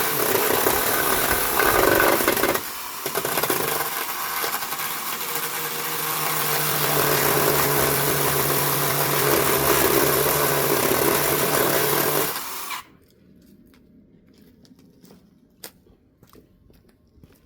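A motor-driven machine running loudly and steadily, dipping briefly about three seconds in, then cutting off suddenly about thirteen seconds in, leaving only faint clicks and handling noises.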